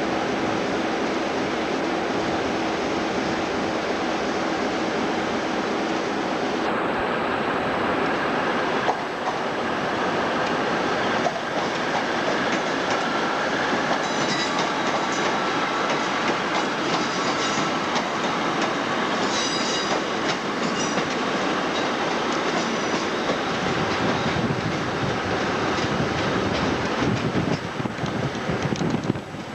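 A train moving along the track with steady running noise and a few wheel clicks, and a high-pitched wheel squeal partway through.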